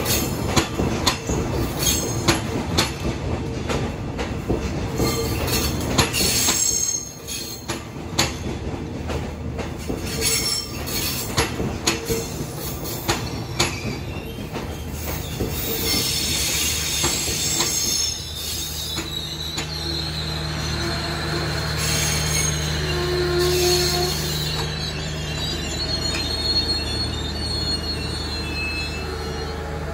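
Passenger train rolling slowly into a station: a run of wheel clacks over rail joints and points, then high wheel and brake squeal from about halfway as it slows. A steady low hum, typical of the train's generator power car, comes in during the second half.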